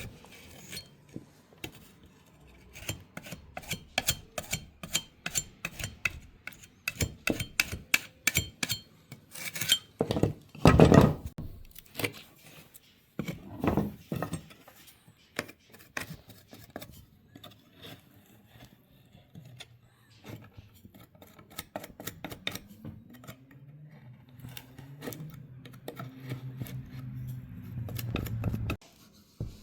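Rapid clinking and tapping of small hard objects, with two heavier knocks about midway. Later a low hum sets in and then cuts off suddenly near the end.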